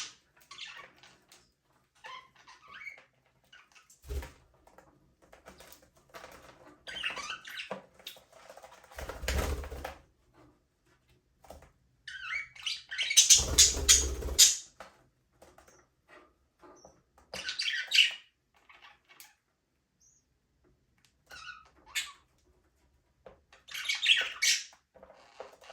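Budgerigars chirping and chattering in short bursts with quiet gaps between, the loudest stretch about halfway through. There are a few soft low thumps among the bursts.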